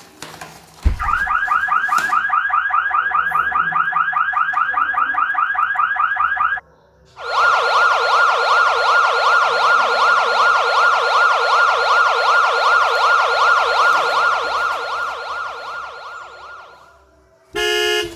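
Electronic siren, like a toy emergency vehicle's: a fast warbling siren for about six seconds, a short break, then a slower repeating siren that fades out. Short horn-like beeps start right at the end.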